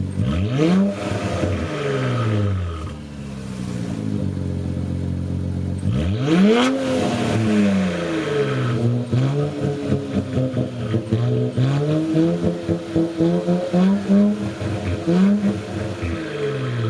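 Car engine idling, then revved repeatedly: a quick rev near the start, a bigger one about six seconds in, then a run of shorter blips.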